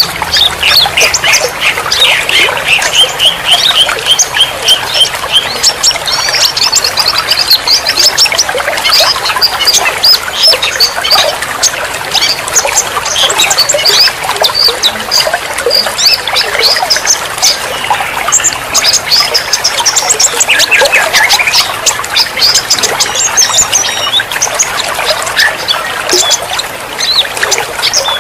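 Dense chorus of many songbirds chirping and whistling over one another, over the steady trickle of running water.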